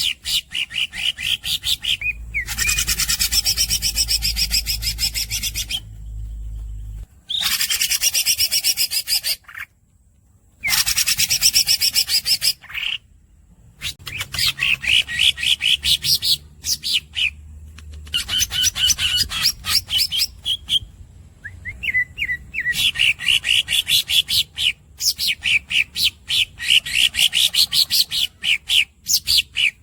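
Green leafbird (cucak ijo) singing: runs of rapid squeaky chirps and long rolling trills, each a few seconds long, broken by short pauses.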